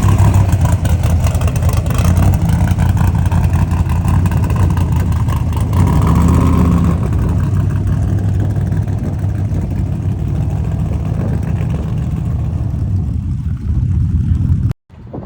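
Off-road race truck engine running hard, its pitch rising and falling as it revs. It cuts off abruptly near the end.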